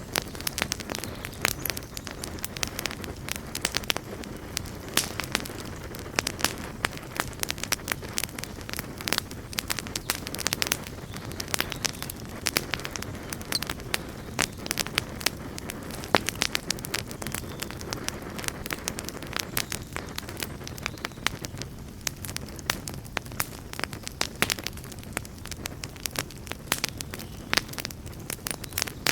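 Campfire burning with frequent sharp, irregular crackles and pops over a steady low rumble of flame.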